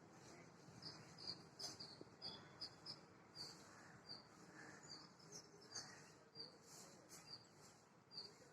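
Small birds chirping faintly: short, high chirps repeated irregularly, two or three a second.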